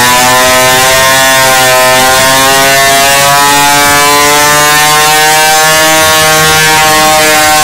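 Motorcycle engine running steadily at high revs, its pitch drifting slowly up and down; very loud.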